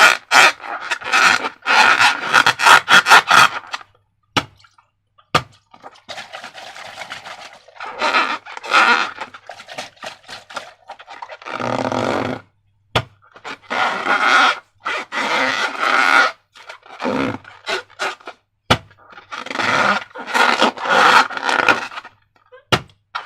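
Slime being squished and kneaded by hand: bursts of wet squelching and crackling lasting a few seconds each, separated by short pauses, with a few single sharp clicks in between.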